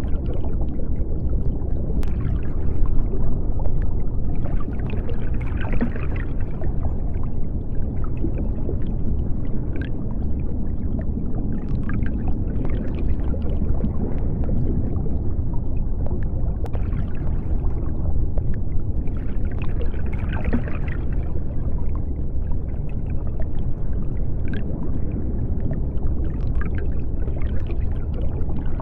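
Underwater ambience: a deep, steady rumble with bursts of bubbling and gurgling that come and go, and an occasional sharp click.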